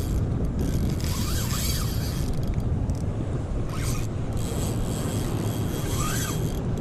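A Quantum Cabo 50 spinning reel buzzing in short bursts with a ratchet-like sound while a hooked striped bass is fought, over a steady low rumble of wind and water.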